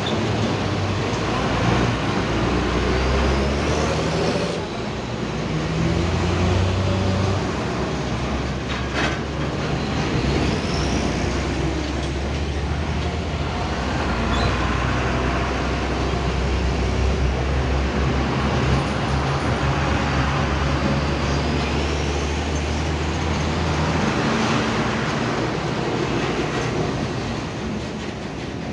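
Heavy diesel trucks and dumpers running in a slow, steady line past the microphone, their engines humming low with tyre and road noise. A few short rising squeals are scattered through it.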